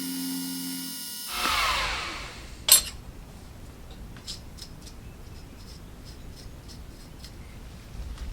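A small milling machine's motor hum cuts off about a second in. The spindle gives a brief falling whir as it spins down. A sharp metallic click follows, then light scattered taps of tool and workpiece handling.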